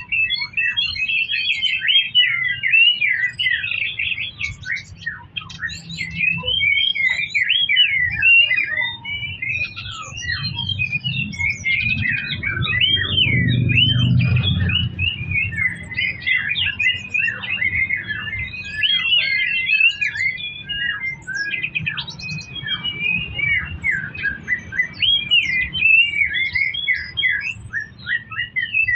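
Songbird singing continuously and energetically: a fast, unbroken stream of varied high chirps and trills, over a low background rumble that swells briefly around the middle.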